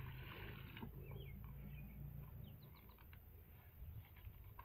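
Faint bird chirps: short, quick sweeping notes in small groups, several times, over a low steady hum. A soft hiss fades out in the first second.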